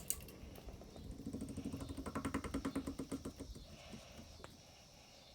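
Emerson Pro Series II ceiling fan spinning down after being switched off: a faint hum with a quick rhythmic pulsing that fades away.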